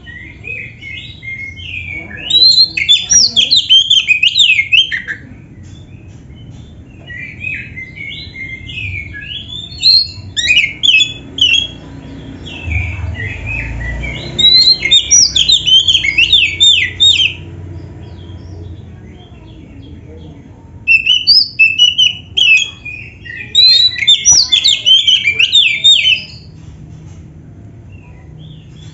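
Oriental magpie-robin (kacer) singing in loud bursts of rapid up-and-down notes, each burst a few seconds long, four times, with a low rumble underneath.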